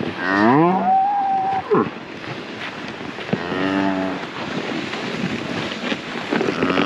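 Cattle mooing, three calls. The first rises sharply in pitch and is held high for about a second. The other two come at about three and a half seconds and near the end, lower in pitch.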